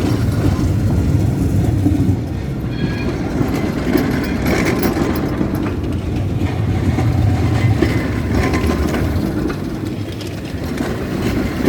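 City tram running on its rails, a steady low rumble with a few brief high-pitched tones.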